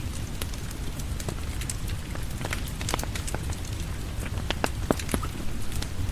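Steady rain with a deep rumble underneath, mixed with irregular sharp pops and crackles of a wood fire burning in a fireplace.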